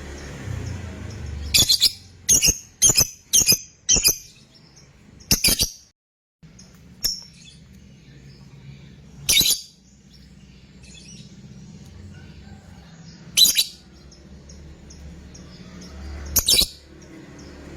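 Fighter lovebird giving short, loud, shrill calls: a quick run of about five in the first few seconds, then single calls every three or four seconds. A steady low hum runs underneath, and the sound drops out completely for a moment near the six-second mark.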